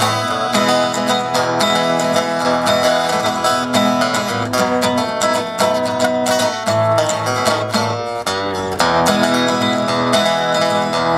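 Instrumental break of a country-and-western song: plucked string instruments, with guitar to the fore, picking a steady tune over a bass line.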